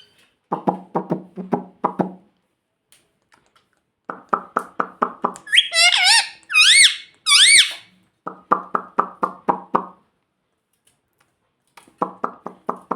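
Rose-ringed parakeet vocalising: bursts of rapid low clucking, about five pulses a second, with three loud wavering high calls in the middle.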